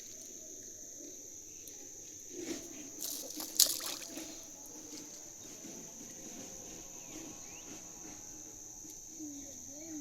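Steady high-pitched chirring of crickets, with a brief cluster of sharp noises about three and a half seconds in.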